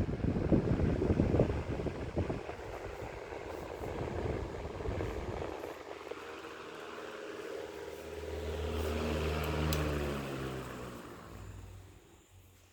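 Antique AEG table fan running with a fast rattling whir, then winding down: its hum slides lower in pitch, swells briefly, and dies away near the end as the blades coast to a stop.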